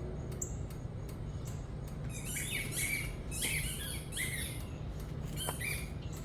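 A small bird chirping: a quick run of squeaky, sweeping chirps about two seconds in, then one more near the end, over faint evenly repeating high ticks and a steady low hum.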